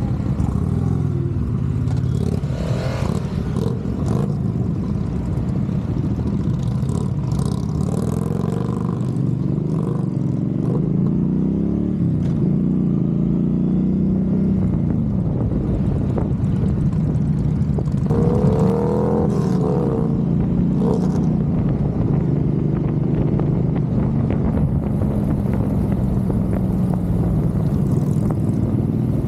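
Motorcycle engines running on the road, their pitch rising and falling over and over as they rev and change speed.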